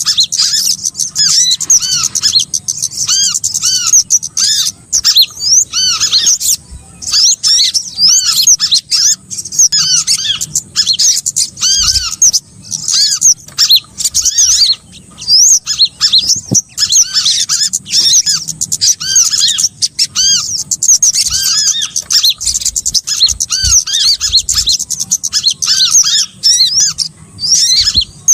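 Bird-lure (pikat) recording of small songbirds chirping densely and without pause: many rapid, high, arched chirps overlapping, with a lower row of repeated chirps beneath. This is a mixed call track of small birds such as sogok ontong, korlap and kemade, played to attract wild birds for trapping.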